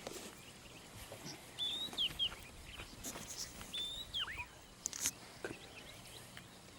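A small bird calling repeatedly: short whistled phrases, each a quick rising then falling note, coming every second or two over a quiet outdoor background, with a few short clicks.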